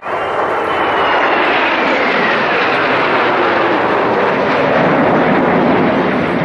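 Kawasaki T-4 jet trainers flying past with a loud, steady jet roar; a thin whine falls in pitch over the first few seconds.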